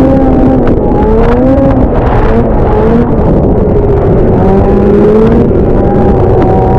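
Two-stroke snowmobile engine running loud under riding, its revs rising and falling.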